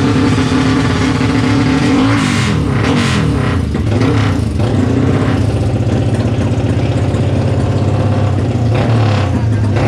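More than one modified big-bore motorcycle engine running, with revs rising and falling a few times about two to five seconds in and again near the end.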